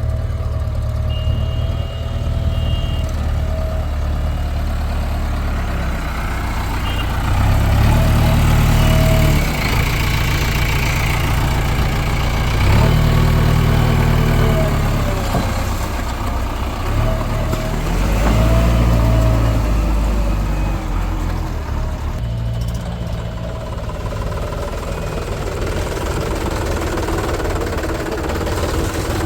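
Diesel engine of a JCB 3DX backhoe loader working under load, revving up three or four times as it digs and loads mud, with a thin whine that rises and falls with the revs.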